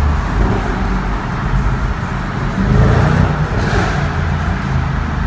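Mercedes CLS 55 AMG's supercharged 5.4-litre V8 running under way, heard from inside the cabin. About three and a half seconds in, a short burst of crackle from the exhaust, which is tuned for pops and bangs.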